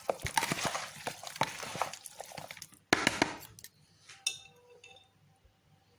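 A dish and utensils clinking and knocking as a spice and tomato mixture is worked into sardines, with a louder clatter about three seconds in, then quieter.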